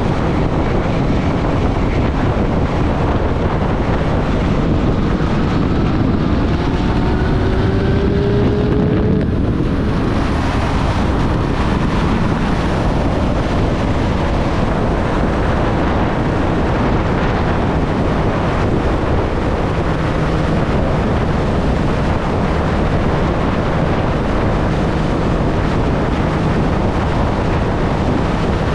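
Triumph Street Triple's three-cylinder engine riding under load, heard through heavy wind noise on the microphone. The engine note rises for several seconds, breaks off about nine seconds in, and then gives way to steady riding.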